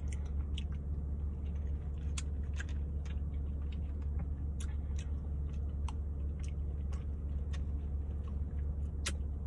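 A person chewing mouthfuls of green beans and baked beans close to the microphone, with scattered small clicks, over a steady low hum.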